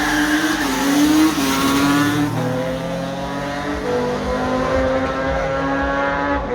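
A car engine accelerating hard through the gears. Its pitch climbs steadily, dropping briefly at each shift about two and four seconds in.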